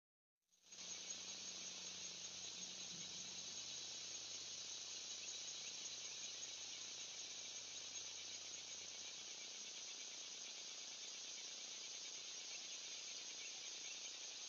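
A steady, unbroken chorus of insects such as crickets, a dense high-pitched shrill. It starts after a moment of silence right at the beginning.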